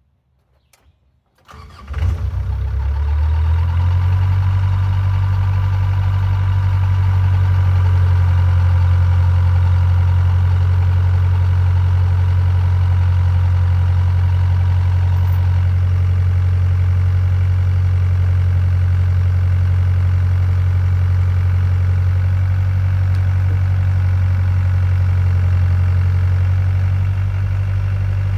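Hitachi EX45 mini excavator's diesel engine starting about two seconds in, then settling into a steady idle.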